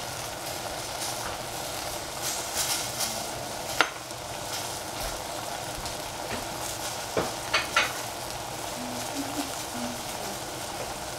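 Bok choy and mushrooms sizzling in a stainless steel saucepan, a steady frying hiss broken by a few sharp pops, one about four seconds in and a small cluster near eight seconds.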